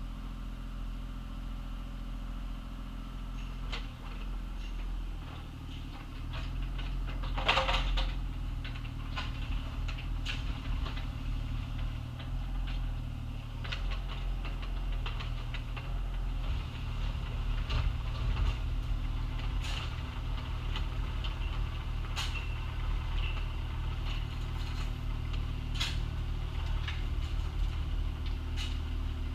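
Excavator's diesel engine running steadily while digging, with scattered clanks and knocks from the bucket working dirt and gravel; the loudest knock comes about seven seconds in.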